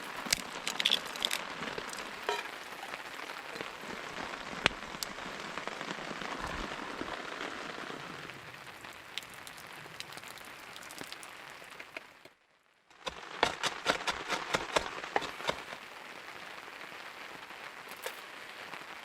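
Steady rain falling, with scattered sharp crackles and clicks over it and a dense run of clicks about fourteen seconds in. The sound drops out completely for about half a second just after twelve seconds in.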